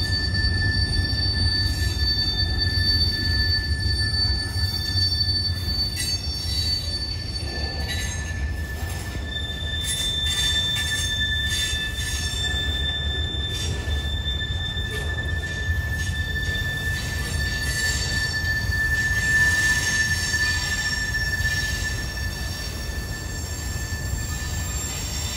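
Freight cars of a manifest train rolling slowly past with a low rumble, their wheels squealing in steady high-pitched tones, one held almost throughout while higher squeals start and stop.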